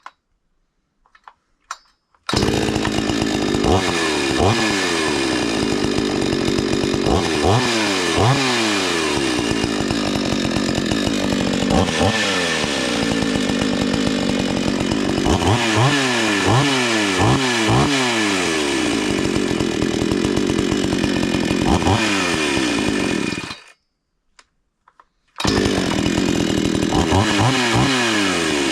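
Gas chainsaw running with the chain spinning freely, revved up and down again and again: a test run after the bar stud repair with the chain freshly set. It stops abruptly about 23 seconds in and is running again a couple of seconds later.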